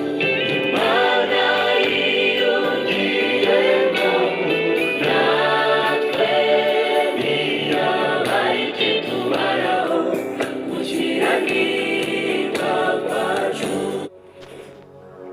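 A choir singing a gospel song with instrumental backing. It drops suddenly to quieter music about a second before the end.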